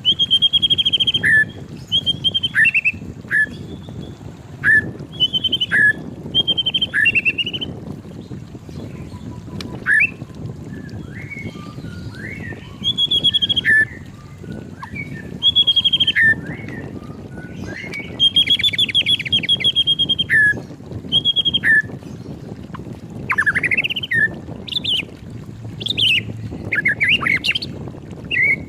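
White-rumped shama singing: a long run of loud, varied whistled phrases, sweeping and trilled notes, one or two every second or so with short gaps between them.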